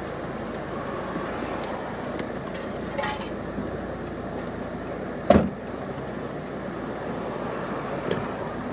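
Steady street traffic noise with a single sharp thud about five seconds in, and a couple of faint clicks.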